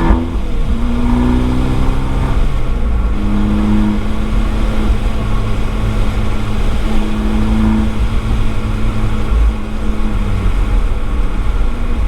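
Abarth 595 esseesse's turbocharged 1.4-litre four-cylinder through an Akrapovič exhaust, driven hard on a wet track: the engine note drops sharply with a gear change right at the start, climbs again, then holds fairly steady with a couple of brief lifts and eases off near the end. A constant hiss of tyres and spray runs underneath, heard from a microphone inside the boot.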